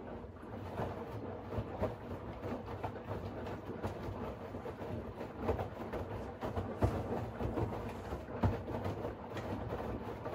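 Siemens iQ700 WG56B2090 front-loading washing machine running a wash cycle: the drum turning and tumbling the laundry, a steady rumble with frequent irregular soft knocks.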